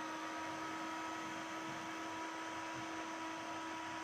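2003 desktop computer running just after being switched on: its cooling fans and power supply give a steady hum with a few constant whining tones over an even whoosh, and the fan keeps spinning instead of stopping.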